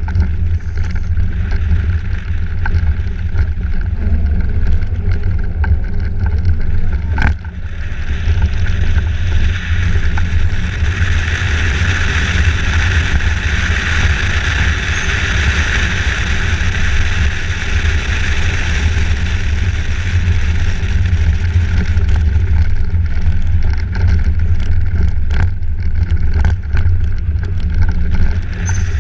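Steady low rumble of a moving vehicle, with a hiss above it that swells for several seconds in the middle, and a single knock about seven seconds in.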